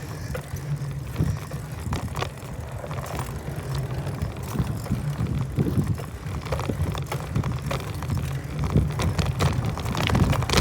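Steady low wind rumble on the microphone while riding a bicycle, with scattered light clicks.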